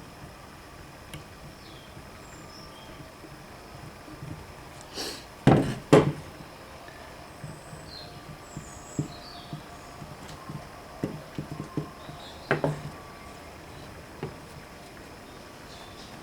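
Two loud knocks about five and a half seconds in, then a run of lighter knocks and taps, over faint bird chirps.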